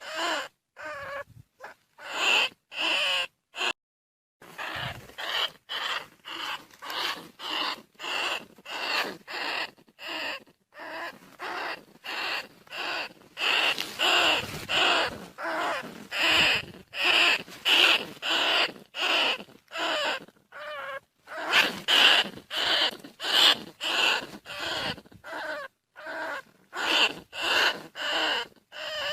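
Bandicoot rat calls, the kind played to lure field rats in: short squeaky calls repeating about twice a second, with a brief pause about four seconds in.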